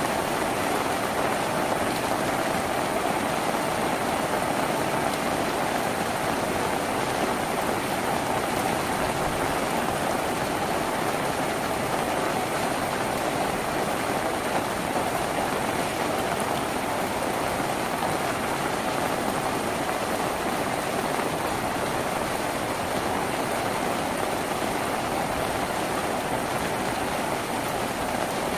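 Steady rain falling on a tin roof, a dense, unbroken patter with no change in intensity.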